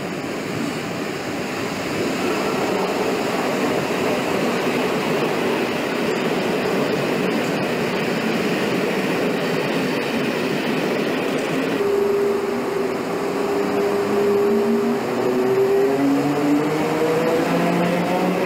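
Passenger train of coaches hauled by an electric locomotive rolling past with a steady rumble of wheels on rail. In the second half a steady tone comes in, then turns into a whine of several tones rising together in pitch.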